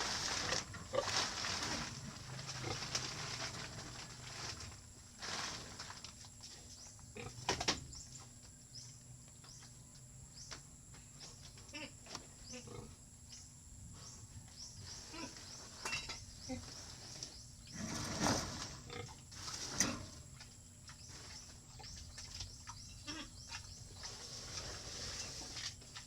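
Pigs grunting in a pen, with a few sharp knocks; the loudest come about 7 seconds in and twice around 18 to 20 seconds.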